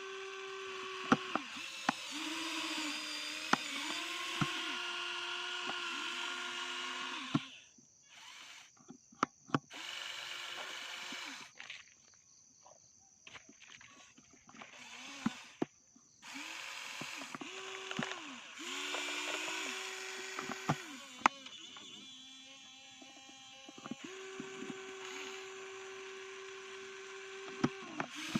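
Small electric motor and gearbox of a toy RC dump truck whining in several runs of a few seconds each, with sharp clicks between and during the runs. The pitch dips briefly at times as it loads.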